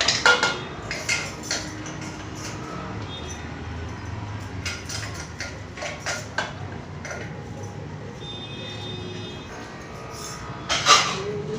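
Scattered clicks and clatter of household objects being handled, like dishes or utensils, over a low steady hum.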